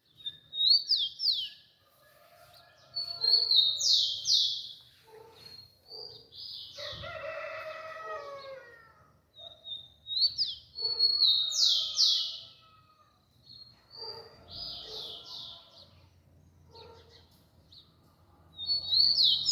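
Rufous-collared sparrow (tico-tico) singing its short whistled song, a high rising note followed by a few slurred, falling notes, repeated about every three to four seconds. A lower call joins in about seven seconds in.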